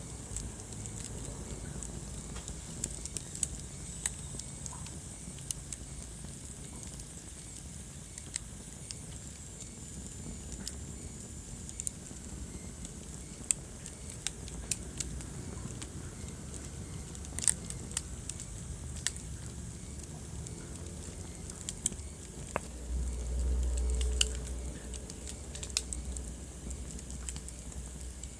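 Wood fire in a fireplace crackling, with scattered sharp pops over a steady low hiss. About 23 seconds in, a low rumble swells for about two seconds.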